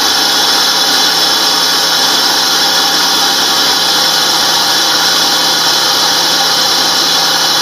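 2002 Pontiac Grand Prix GT's 3.8-litre V6 running steadily at idle. It runs a little loud because the airbox is not hooked up, so the intake draws unfiltered air.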